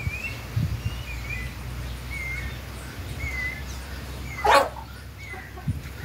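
A bird chirps repeatedly, a short wavering note about once a second. About four and a half seconds in comes a single short, loud animal call, the loudest sound here.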